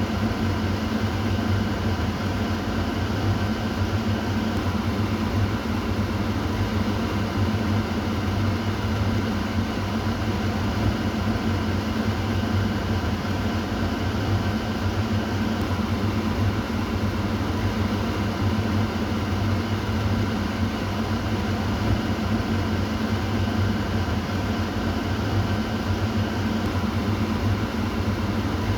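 Kitchen exhaust fan running steadily: a constant whoosh of moving air over a low motor hum.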